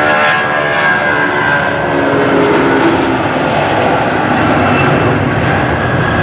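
Boeing 757-200 freighter's twin turbofan engines at high power on departure, a loud steady roar, with a tonal whine that fades in the first second or so.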